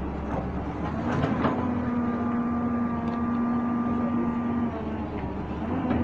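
Excavator at work: its engine running with a steady whine that holds for a few seconds and then drops away, and several metal clanks in the first second and a half.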